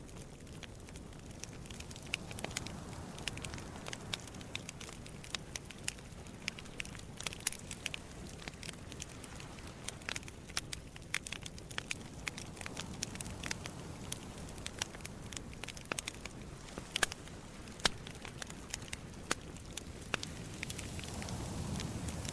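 Wood campfire crackling, with sharp irregular pops and snaps from the burning logs over a low rumble of sea waves that swells near the end.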